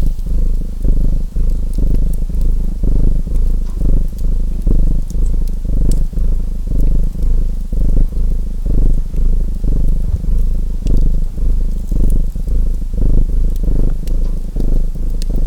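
A domestic cat purring close up, loud and low, swelling and fading with each breath about once a second. Faint crackles of a wood fire are scattered over it.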